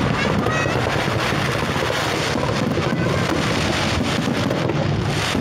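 Wind buffeting the microphone: a steady, dense rumbling rush with no clear event standing out.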